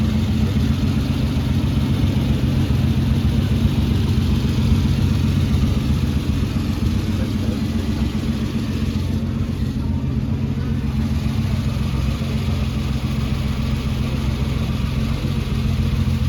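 Car engine running at a steady idle, loud and close, with an even low hum throughout.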